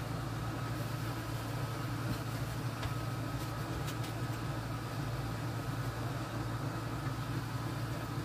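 Steady low mechanical hum with a thin, faint high whine over it, and a few faint clicks.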